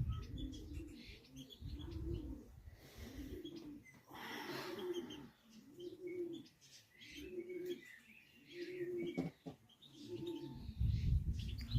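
Pigeons cooing, a low rising-and-falling coo repeated about once a second, with small birds chirping higher over it.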